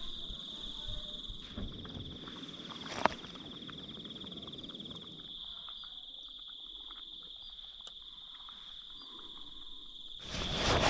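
Crickets trilling steadily in the evening bush, one continuous high-pitched trill. A single sharp click comes about three seconds in, and louder noise rises near the end.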